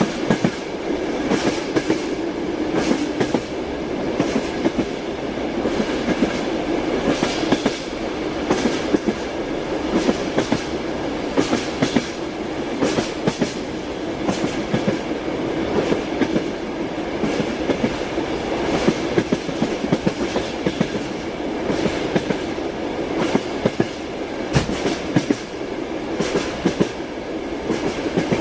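Moving train: wheels clacking over rail joints, a knock every second or so over a steady rumble, heard from inside the carriage.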